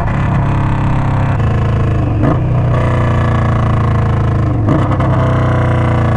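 Indian Scout Sixty V-twin running steadily through a Hacker Mayhem 2-into-1 exhaust, a loud, higher-pitched exhaust note, with two short changes in the note about two seconds in and again near five seconds.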